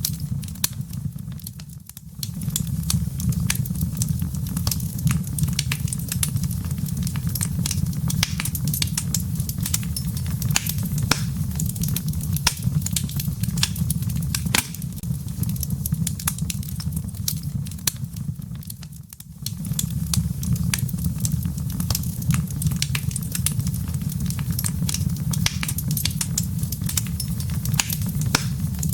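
Wood fire in a fireplace crackling, with irregular sharp pops and snaps over a steady low rumble of the burning embers. The sound dips briefly twice.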